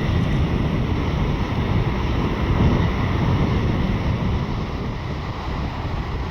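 Jet noise from a Boeing 747-8F's four GEnx-2B engines: a loud, steady, deep rumble that eases off slightly near the end, with wind on the microphone.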